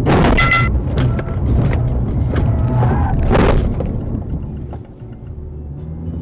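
Traffic collision heard on a dashcam: a loud sudden impact at the start with a brief ringing, scattered clatter, and a second loud crash about three and a half seconds in, over steady low vehicle and road noise.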